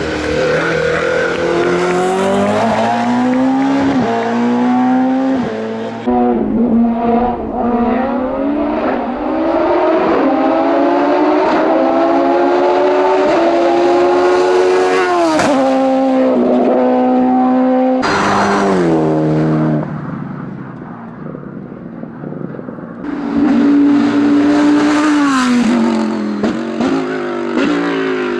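Race car engine at full throttle, pitch climbing through each gear and dropping sharply at every upshift. About two-thirds of the way through the engine note falls away and goes quieter for a few seconds, then builds loudly again.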